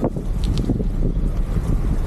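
Wind buffeting the microphone over the steady rough rumble of a gravel bike's tyres rolling on a gravel trail.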